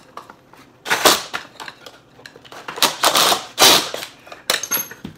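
A 1.5-inch drill bit grinding through the camera's cardboard shell in short, irregular bursts, with crunching and rattling as it breaks into the last layer.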